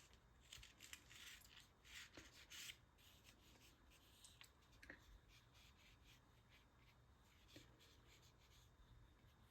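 Faint strokes of a flat brush rubbing watery paint onto paper, a few short scratchy passes in the first three seconds and then sparser ones.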